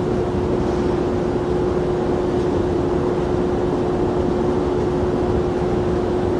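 Jet airliner engines running with a steady rumble and a constant low whine.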